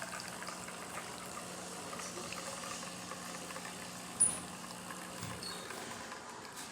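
DeLonghi Magnifica espresso machine brewing a test shot: the pump hums steadily as espresso runs into the cup. A sharp click comes about four seconds in, and the pump hum stops about a second later as the shot finishes.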